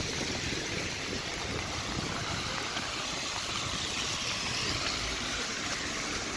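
Steady hiss of rain falling on a wet sidewalk and street.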